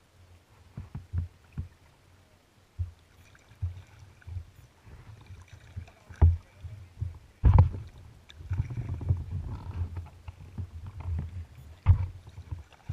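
Kayak being paddled: irregular low thumps and sloshing of water against the hull and paddle, with a sharper knock about halfway through and another near the end.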